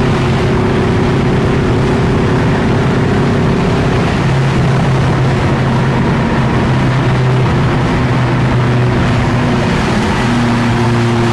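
BMW M5 F10's twin-turbo V8 running at a steady, loud engine note that holds its pitch, shifting slightly up or down a few times.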